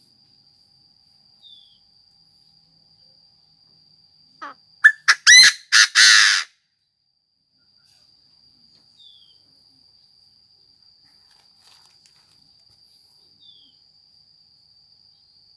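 Chinese francolin calling: one loud burst of about five harsh notes, bending up in pitch, a little over four seconds in, lasting about two seconds. A steady high insect trill runs underneath, with a few faint short chirps.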